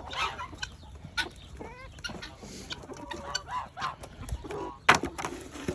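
A flock of chickens clucking and squawking in short, scattered calls, complaining at not getting treats. A single sharp knock about five seconds in.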